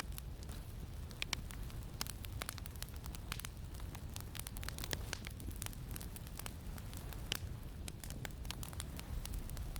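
Campfire crackling with irregular sharp pops, over a steady low wind rumble.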